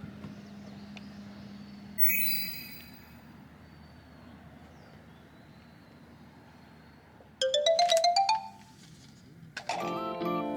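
Short bright melodic tones, like a ringtone or a music jingle: one ringing note about two seconds in, then a quick rising run of notes and more notes near the end.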